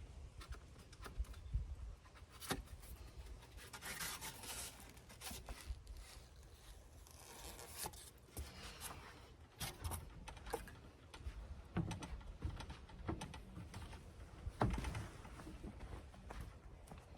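Hand work while fitting foam board insulation in a truck topper: scattered knocks and clicks, with two longer scraping, rustling stretches about four and seven seconds in.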